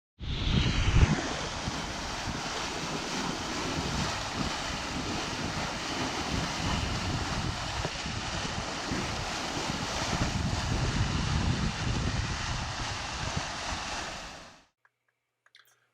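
Steady wind and water noise, with low gusts buffeting the microphone, fading out near the end.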